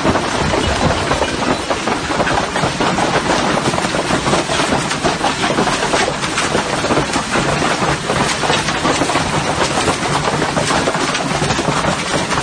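Large hailstones pelting down in a loud, dense clatter of countless separate impacts, unbroken throughout.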